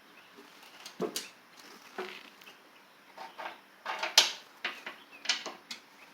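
Irregular clicks and knocks of lawn tractor mower deck parts being handled and worked by hand, about one to three a second, the loudest a little past four seconds in.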